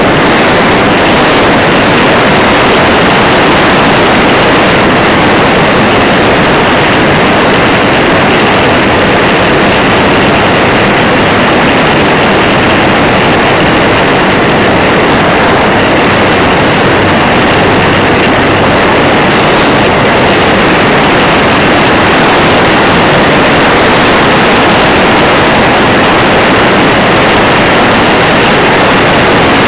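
Loud, steady rushing noise from the small onboard camera's microphone on a radio-controlled model Cessna in flight: propeller and motor noise mixed with wind blasting over the microphone, with no distinct changes.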